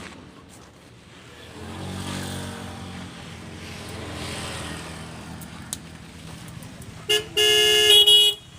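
A motor vehicle's engine running, then near the end a vehicle horn: a short toot followed by a longer blast of about a second that changes pitch partway through.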